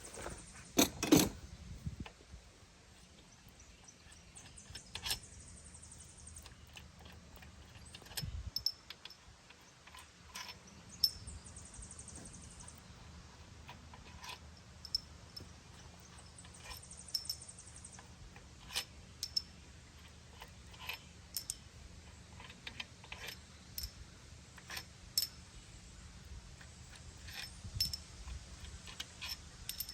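Scattered metallic clicks and clinks of hand tools and engine parts being handled, over a low steady hum. The sharpest knocks come about a second in.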